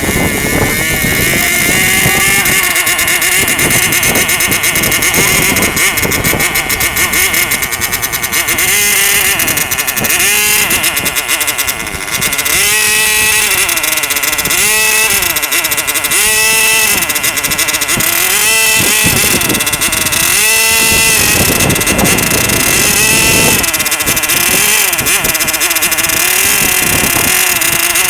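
Small two-stroke model-aircraft engine of a control-line model airplane running at high revs with a high-pitched whine. From about nine seconds in, the pitch rises and falls in a regular cycle roughly every second and a half to two seconds as the plane circles on its lines, settling steadier near the end.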